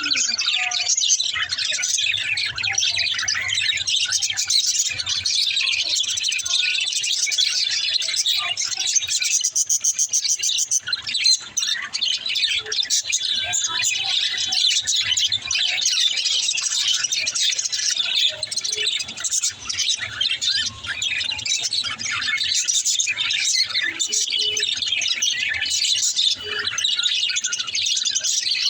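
Several budgerigars chirping and chattering at once in a dense, unbroken stream of high twittering calls.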